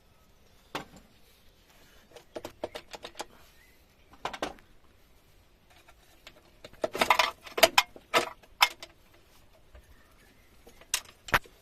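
Metal tools clinking and clicking against bolts and metal parts in scattered short bursts, a cluster of quick clicks a couple of seconds in and the loudest run of clinks past the middle, as the coolant (water) manifold is being unbolted from a KamAZ truck engine.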